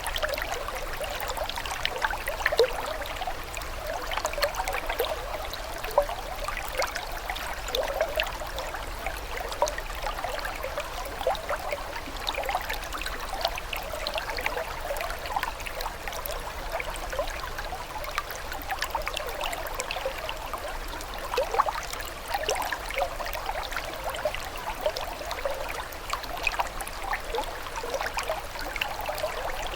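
Running water, steady and unbroken, with many small splashes and little low rumble.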